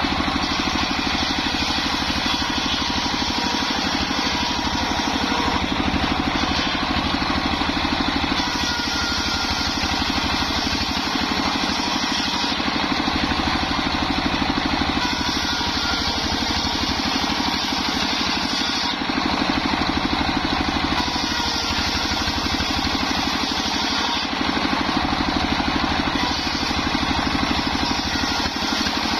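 Engine-driven homemade circular sawmill running steadily, with a higher hiss that comes and goes every few seconds.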